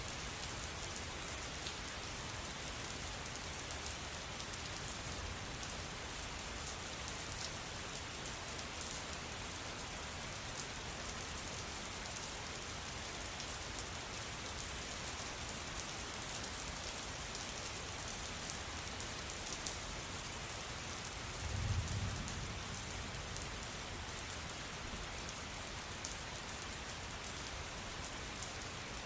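Steady rain falling: an even hiss with scattered sharper drop ticks. A brief low rumble comes about three-quarters of the way through.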